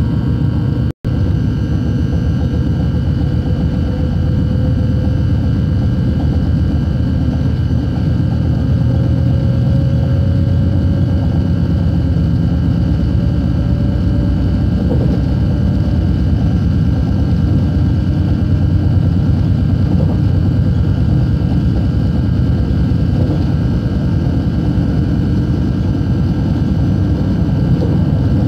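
Steady rumble of a moving passenger train heard from inside the carriage, with a faint whine that rises slowly in pitch over the first half. The sound drops out for an instant about a second in.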